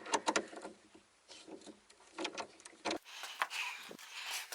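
Hand tools and metal parts clicking and knocking in short groups of a few quick clicks at a time, the loudest knock near the end.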